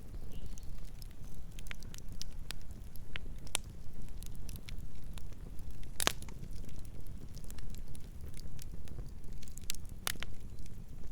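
Campfire burning: a steady low rumble of flames with irregular crackles and sharp pops of burning wood, the loudest snaps about 3.5, 6 and 10 seconds in.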